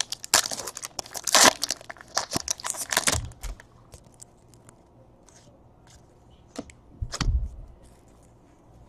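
Foil trading-card pack wrapper crinkling and tearing for about three seconds, then a few light clicks of cards being handled and a single dull thump later on.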